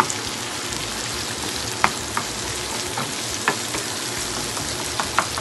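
Sardine choka (sardines with onion and tomato) sizzling in oil in a frying pan while a wooden spoon stirs it, with a few short sharp clicks over the steady sizzle.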